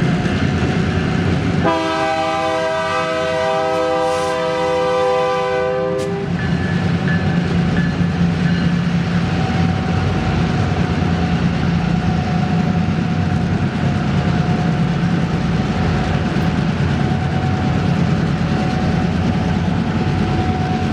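Train locomotive sounding its air horn in one long blast of about four seconds, starting about two seconds in. After the horn, the steady noise of the moving train, with a low steady engine hum underneath.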